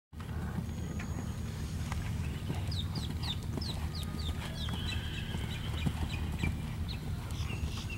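A bird calling over a steady low rumble: a run of short, quick descending chirps, about three a second, beginning around the middle, followed by a briefer held high note.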